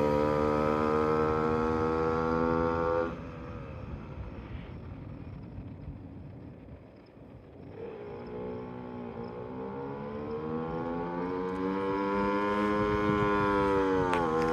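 Puch Magnum moped's small two-stroke single-cylinder engine running with a steady high whine, which drops away suddenly about three seconds in. From about eight seconds the whine climbs back in pitch and loudness and holds high near the end.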